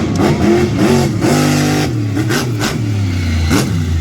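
Car engine revved up and down several times, briefly held at a steady rev near the middle, then settling lower.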